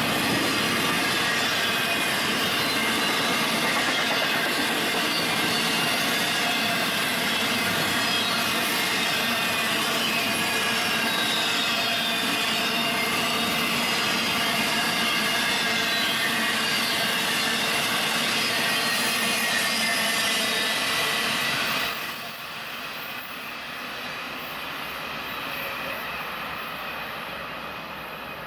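Union Pacific freight train rolling past, steel wheels on rail making a steady loud rush with high squealing tones. About 22 seconds in the sound drops abruptly to a quieter rumble.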